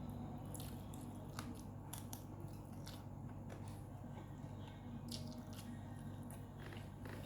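Close-up mouth sounds of a person chewing food, with irregular wet clicks and small crunches, over a steady low hum.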